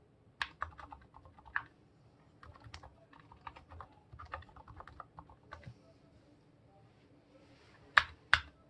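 Typing on a Monstargear Ninja 87 aluminium mechanical keyboard with fully lubed Gateron silent yellow switches: soft, irregular keystrokes that stop for about two seconds, then two louder strokes near the end.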